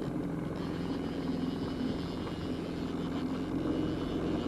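Boat motor running steadily at trolling speed, a droning engine hum.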